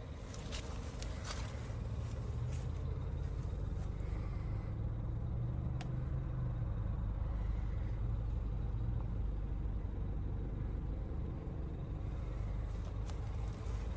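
Car engine idling: a steady low rumble, with a few light clicks near the start and near the end.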